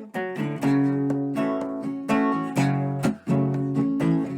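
Acoustic guitar strummed in rhythm, chords ringing between strokes, played alone without singing.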